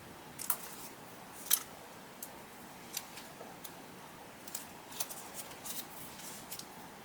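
Scattered sharp clicks and snips from hand paper-crafting work: paper cutouts and small tools being handled on a journal page. The loudest click comes about a second and a half in.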